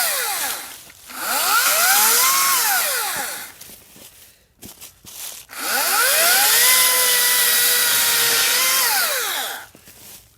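Hart 40-volt cordless electric chainsaw run in the air. Its motor and chain whine up to speed and wind down each time the trigger is let go: a short burst, then a few clicks, then a longer steady run of about three seconds.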